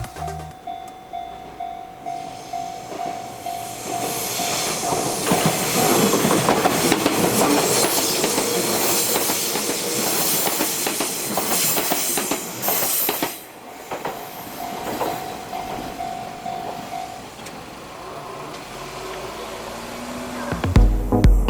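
Level-crossing alarm ringing in a steady, high, even repeated tone. A few seconds in, an Izuhakone Railway Sunzu Line electric train runs over the crossing with loud wheel clatter for about nine seconds. The alarm rings on briefly after the train has gone.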